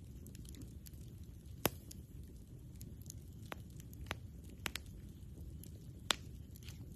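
Wood campfire crackling, with about six sharp pops spread through, the loudest about two seconds in and near the end, over a low steady rumble.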